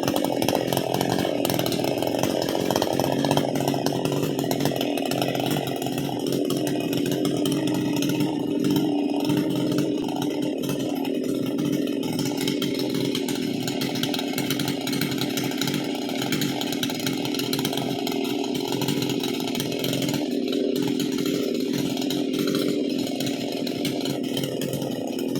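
Two-stroke chainsaw running steadily at an even pitch.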